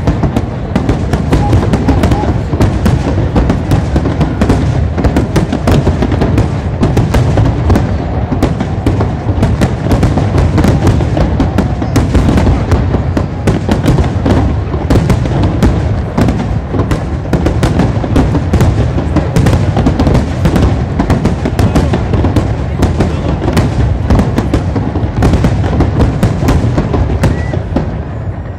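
Fireworks barrage: a dense, continuous stream of shell bursts and crackling explosions, easing off near the end.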